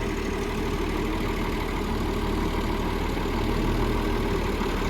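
Diesel engine of an old John Deere grader idling steadily.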